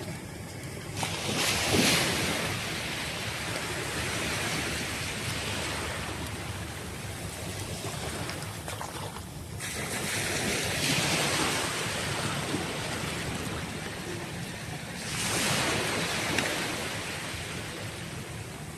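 Sea surf breaking and washing up the shore, swelling three times: about a second in, around ten seconds in and around fifteen seconds in.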